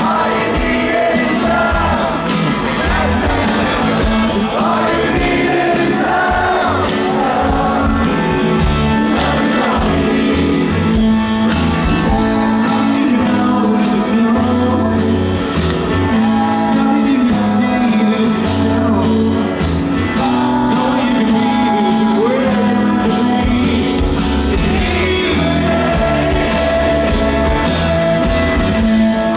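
Loud live rock music with a singer, the band playing continuously with a steady beat, and shouts from the audience.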